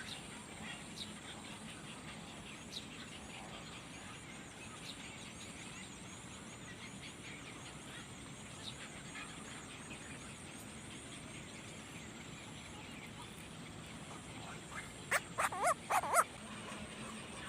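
Faint outdoor background, then near the end a quick run of about five loud, short animal calls.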